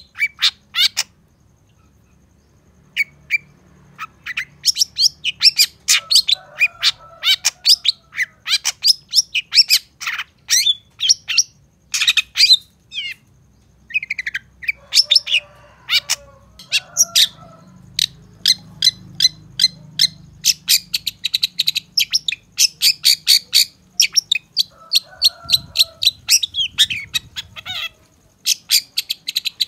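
Long-tailed shrike (cendet) singing: fast runs of sharp, high chirping notes with a few lower, harsher notes mixed in. It breaks off briefly about a second in and again near the middle.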